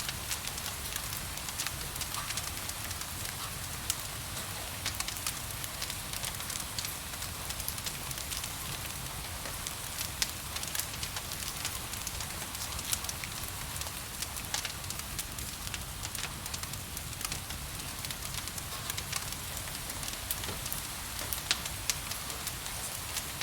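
Wood fire crackling, with frequent sharp pops and snaps, over a steady hiss of gentle rain.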